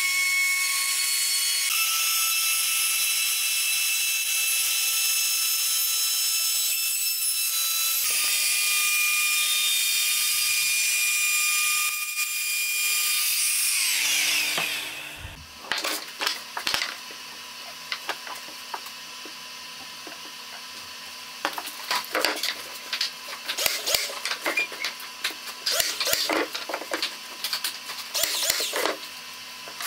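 A high-pitched power tool running steadily, its pitch stepping a couple of times, then winding down about fourteen seconds in. After that come quieter, irregular scraping strokes of work on wood.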